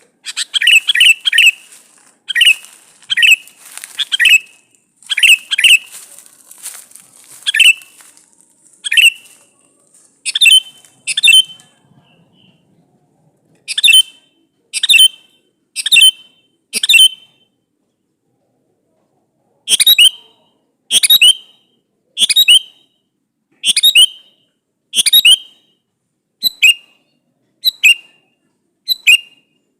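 Male sooty-headed bulbul (kutilang) calling: short, bright whistled notes repeated about once a second, with a pause of about two seconds a little past the middle.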